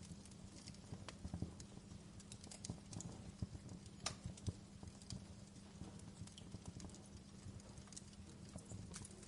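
Wood fire crackling: irregular sharp pops and snaps, a couple of louder ones about four seconds in, over a low steady rumble.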